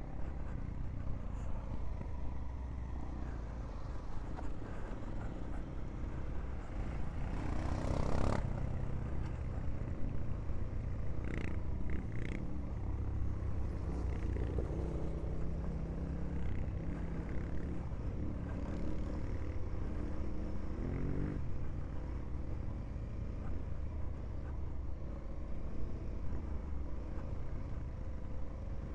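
Honda Africa Twin's parallel-twin engine running at low, varying revs as the bike rides a rough dirt track, with a brief louder surge about eight seconds in and a few short knocks a few seconds later.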